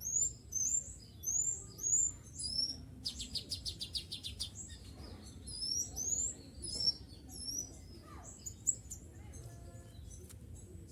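A kutilang sutra (sipocah) songbird calling: quick high whistled notes, about two a second, then a short buzzy rattle around four seconds in, and more notes before it eases off in the last few seconds.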